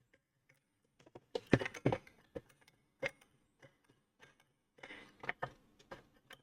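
Irregular clicks and knocks as the housing of a Kenwood stand mixer is handled and worked at during disassembly, a few at a time, bunched about a second and a half in and again near five seconds.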